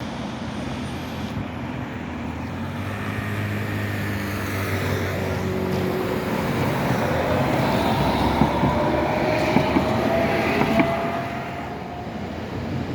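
Electric tram running past, its motor whine rising slowly in pitch as it gathers speed, with several sharp clicks from the wheels on the rails as it is loudest, then fading.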